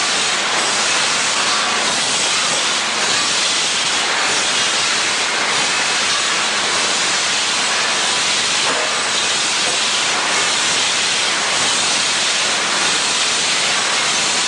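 Abrasive belt polishing machines running a 60-grit belt, grinding the forging trim line off steel plier forgings: a loud, steady hiss with a faint pulse a little over once a second.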